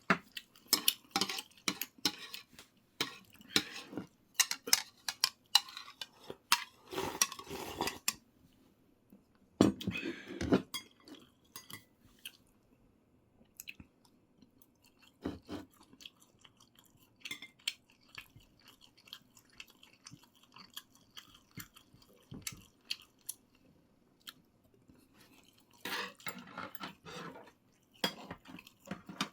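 A person eating close to the microphone: chewing, with clicks and clinks of utensils against dishes. The sounds come thick for the first ten seconds or so, thin out to occasional soft clicks through the middle, and pick up again near the end.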